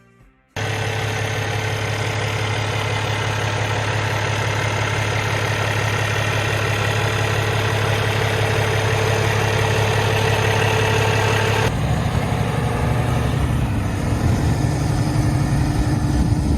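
Freightliner Cascadia truck tractor's diesel engine idling steadily. It starts abruptly about half a second in. Near 12 s the sound changes suddenly to a rougher, less even running note.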